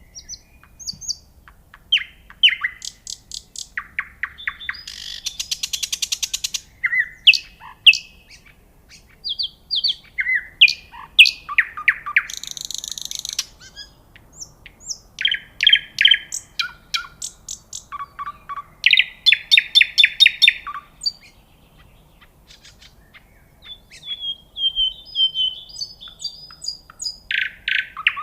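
A songbird singing a long, varied song of chirps, sweeping notes and fast trills, in phrases broken by short pauses.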